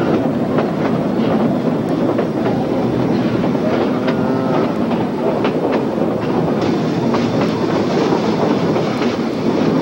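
Narrow-gauge passenger train rolling along the track, heard from aboard: a steady rumble of wheels on rail with repeated clicks over the rail joints. A short pitched call sounds briefly about four seconds in.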